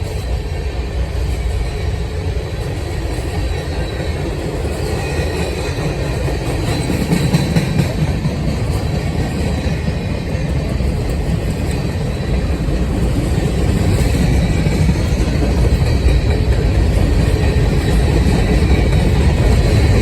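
Freight train cars rolling past at trackside: a steady rumble of steel wheels on rail with some clickety-clack, getting heavier from about seven seconds in.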